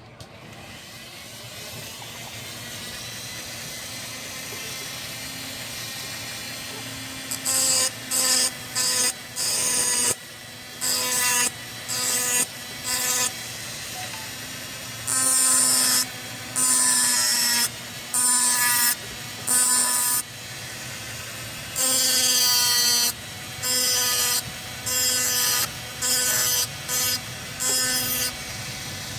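A small motorised tool switched on and off in quick bursts, about twenty times, each burst a whining buzz with hiss over it. Behind the bursts runs a steady hiss that slowly builds over the first few seconds.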